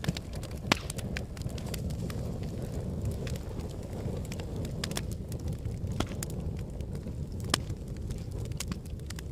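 Volcanic eruption: a steady low rumble with irregular sharp cracks and clicks. Two louder cracks come under a second in and again near the end.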